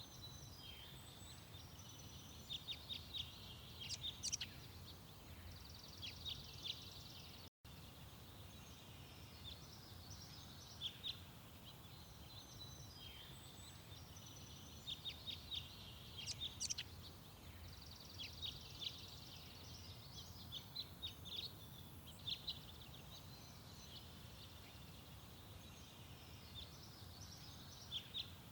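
Garden songbirds singing, with phrases of quick high chirps and trills coming every few seconds over a faint low background rumble.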